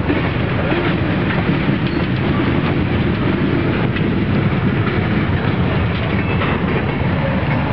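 Freight train rolling along the track: a steady rumble of steel wheels on rail.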